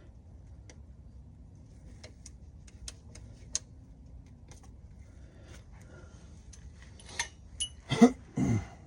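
Scattered light metallic clicks and taps from handling a connecting rod end cap and its bearing shell under the engine, with a couple of brief ringing clinks about seven seconds in.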